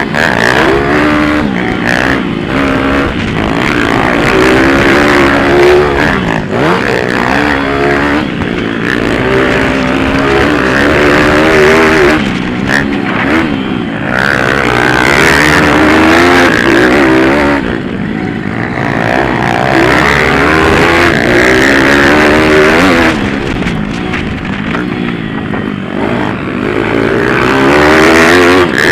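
Several small single-cylinder pit bike engines racing, revving up and down in overlapping waves as the bikes pass, accelerate and shift, with wind noise on the microphone.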